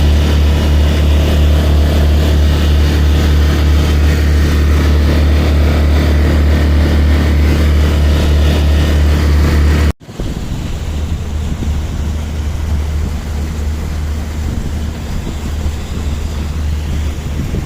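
Sailboat's auxiliary motor running steadily, a loud deep drone. About ten seconds in it cuts off abruptly and is replaced by wind buffeting the microphone with water sloshing.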